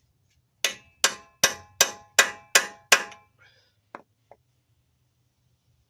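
Hammer striking a chisel on metal: seven sharp ringing blows, about three a second, then two faint taps. They are knocking the staked-down lip on the CV axle nut back up so the nut can be undone.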